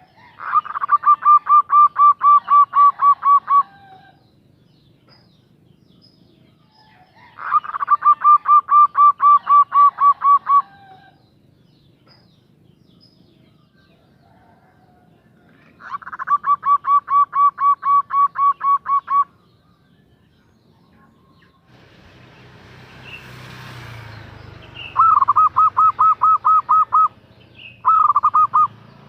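Female zebra dove (perkutut) calling to a male: rapid runs of short, even cooing notes at about four a second, in three bouts of about three seconds each, then a shorter bout and a brief one near the end. A low rumbling noise sits under the last two bouts.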